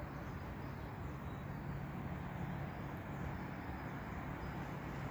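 Faint, steady low rumble of an approaching Class 180 Adelante diesel multiple unit, slowly growing louder.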